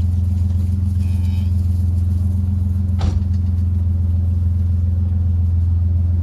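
Truck engine running with a steady low hum, and a single sharp click about halfway through.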